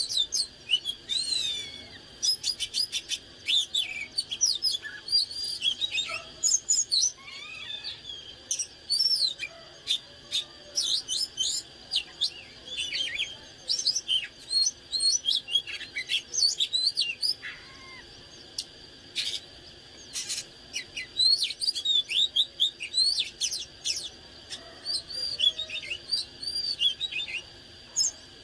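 Oriental magpie-robin singing: a rapid, varied run of whistled notes and sweeping phrases in quick bursts with short pauses, with sharp clicks scattered through it.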